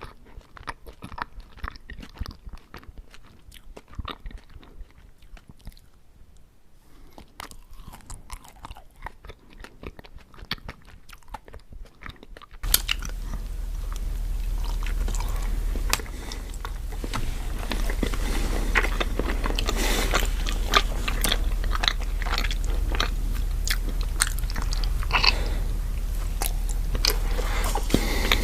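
Close-miked eating sounds: biting into and chewing ice cream sandwiches, with many wet mouth clicks and crunches. About halfway through it cuts abruptly to a louder recording with a steady low hum underneath the chewing.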